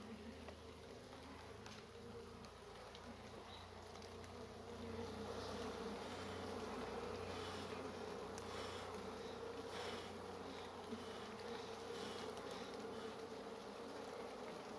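Honey bees buzzing around an open hive, a steady hum that swells a little about five seconds in, with a few faint clicks.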